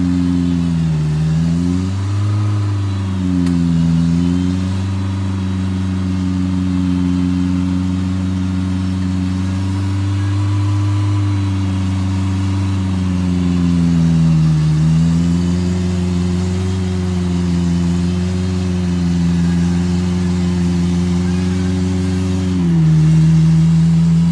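4x4 off-road vehicle's engine running at a steady speed. Its pitch dips briefly and recovers a few times.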